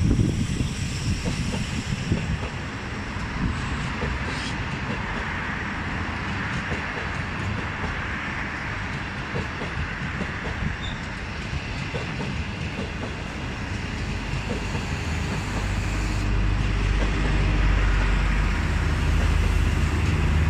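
Passenger train coaches pulling out of a station, their wheels clicking over rail joints as they roll past. A low rumble builds over the last few seconds.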